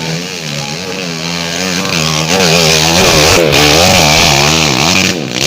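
Trail motorcycle engine revving hard under load on a steep dirt hill climb, its pitch surging up and down several times a second and getting louder partway through.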